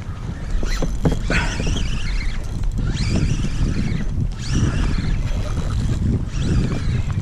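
Wind rumbling on the microphone over water, with bursts of splashing every second or two around the kayak.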